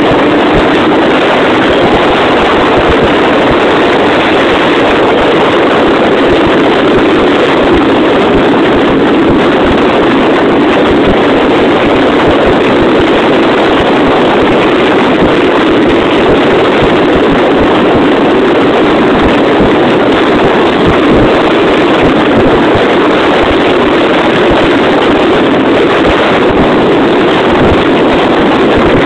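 Jawa 350 type 639 two-stroke twin engine running steadily at road speed, heard from on the moving bike with wind buffeting the microphone.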